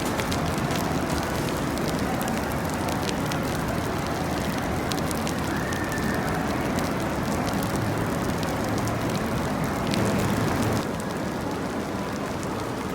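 Steady rain with a dense patter of drops that thins slightly near the end.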